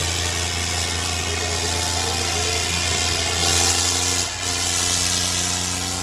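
Tractor diesel engine running steadily under throttle, with a brief dip about four seconds in.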